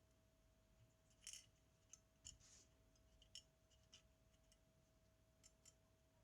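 Faint small clicks and light scrapes from tools and small metal parts being handled while a Zenit TTL camera is worked on, irregular and a dozen or so in all, over a faint steady hum.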